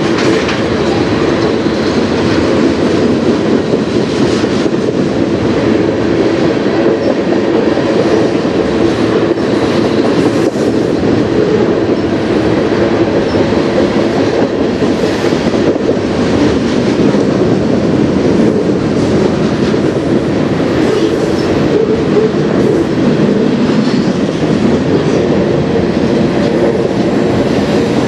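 Freight train's tank cars, boxcar and autorack cars rolling past on steel wheels: a steady, loud rumble with a click now and then.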